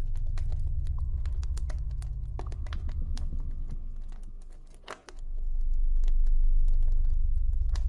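Campfire crackling: irregular sharp pops and snaps over a deep, steady low rumble, which drops away briefly about five seconds in and then swells back.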